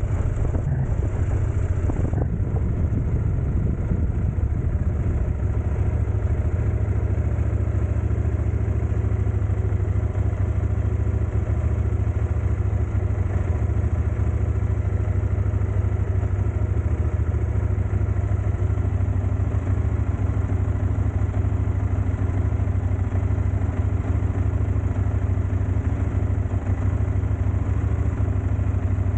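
Steady, unchanging low rumble of a running vehicle engine.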